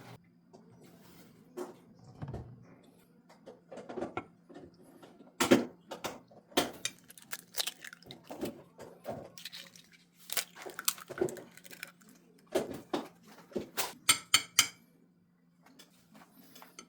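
Utensils clinking and knocking against a bowl or dish, in irregular single strikes with a quick run of rapid taps near the end, over a faint steady low hum.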